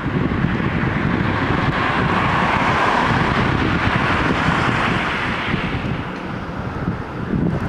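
A work boat's engine running, a steady low rumble, with wind buffeting the microphone and a wash of noise that swells and fades in the middle.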